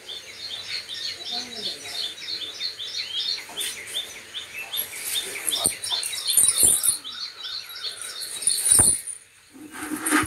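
A small bird chirping over and over, short high chirps about three a second, with a few sharp knocks in between, the loudest about nine seconds in.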